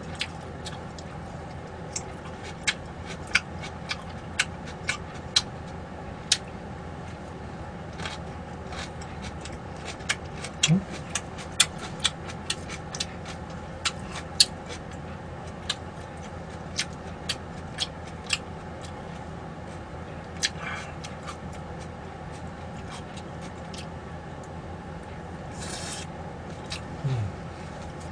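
Eating at a table: irregular sharp clicks and taps, a few every second at times, over a steady low hum.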